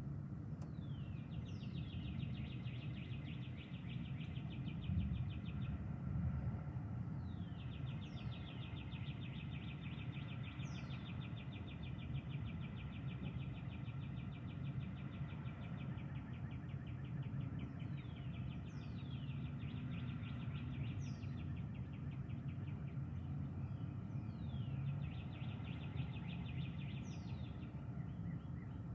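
A songbird singing: a quick falling whistle followed by a long, fast trill lasting several seconds, repeated about every six to eight seconds, over a steady low background rumble.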